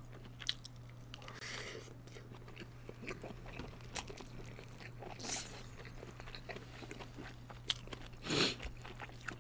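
Kielbasa sausage being bitten and chewed close to the microphone: soft, irregular clicks and wet mouth noises over a steady low hum.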